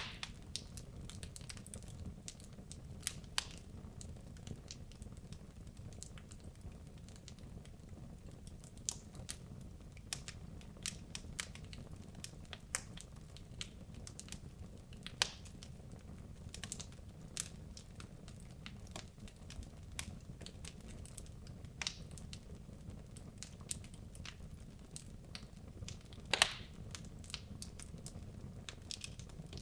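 Wood logs burning in a fireplace: scattered sharp crackles and pops over a low steady rumble, with a few louder pops, the loudest near the end.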